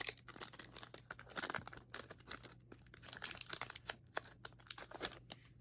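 The foil wrapper of a Pokémon TCG Silver Tempest booster pack tears and crinkles as it is opened by hand, in irregular bursts of crackling.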